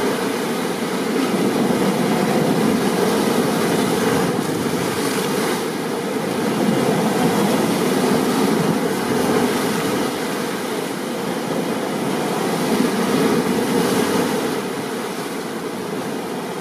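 Steady heavy rain, a dense even hiss that swells and eases slightly now and then.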